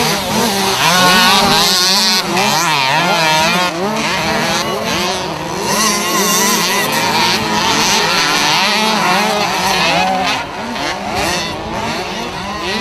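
Several 65 cc two-stroke minicross bikes racing together, their engines revving up and down with the throttle, many pitches overlapping and rising and falling.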